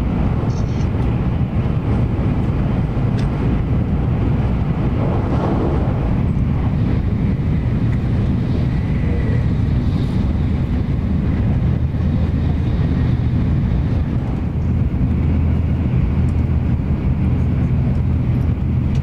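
Hikari Shinkansen bullet train running, a steady low rumble.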